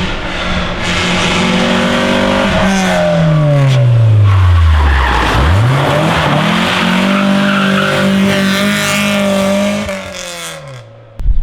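Rally car engine at high revs; the revs fall away steadily to a low growl, then climb and hold again, with tyre squeal or skidding through the slowest part. The sound cuts off abruptly near the end.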